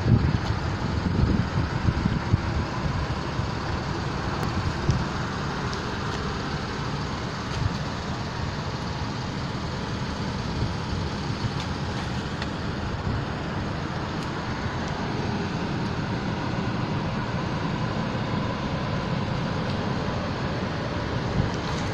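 A 2016 GMC Acadia's V6 idling steadily, heard as a low, even rumble, with a few knocks of handling in the first few seconds.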